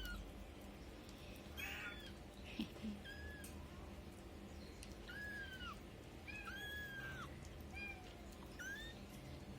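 Young kittens mewing: a series of short, high-pitched mews, each rising and falling, repeated at irregular intervals.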